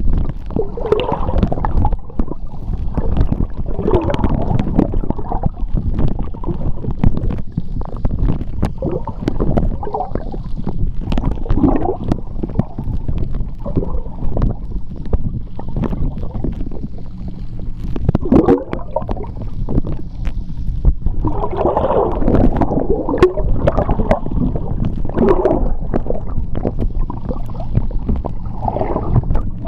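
Underwater recording of seawater in a strong tidal channel: a steady low rumble of moving water with irregular gurgling and bubbling, and scattered small clicks and pops.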